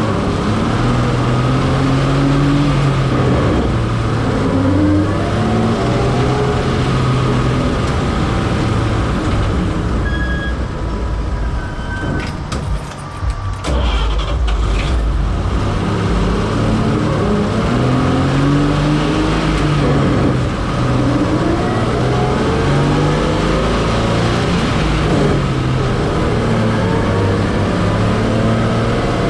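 Old truck's 235 straight-six pulling through the gears of its manual four-speed: the engine's pitch climbs as it revs, drops at each shift, then climbs again. Near the middle it eases off and goes quieter for a couple of seconds before pulling up once more.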